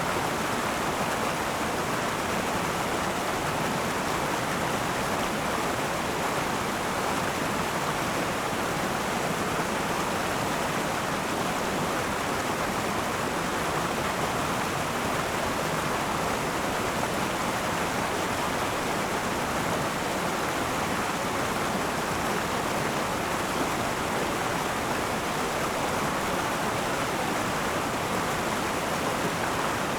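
River water rushing steadily over rocks: a continuous even rush of flowing water.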